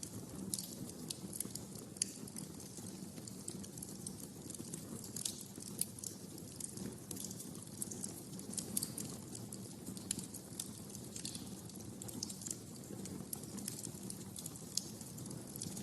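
Wood fire burning in a fireplace, with a steady low rush under frequent irregular sharp crackles and pops.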